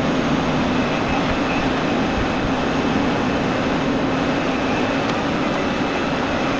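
Diesel tractor engine running steadily with an even hum, in the middle of an exhaust-filter regeneration (regen).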